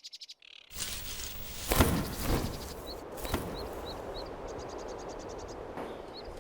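Forest ambience: an insect's rapid pulsing trill, several short high bird chirps, and a couple of rustling crackles of vegetation about two seconds in.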